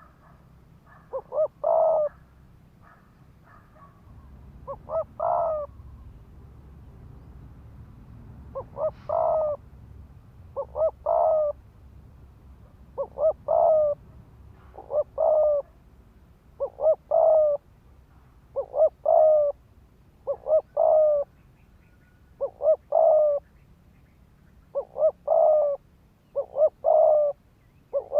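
Spotted dove cooing in fast repeated phrases, each two short notes followed by a longer one, about one phrase every two seconds: the rapid 'thúc gù' coo that decoy keepers use to provoke wild doves.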